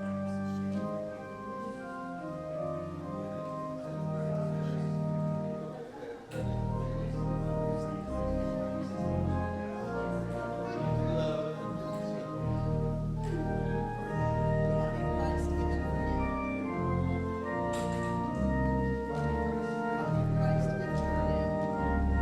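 Organ music, slow held chords with changing notes; deep bass notes come in about six seconds in.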